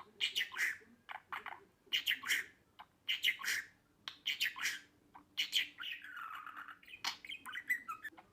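Budgerigar chattering in quick clusters of high, scratchy chirps and squawks, repeating about once a second, with a longer warble about six seconds in.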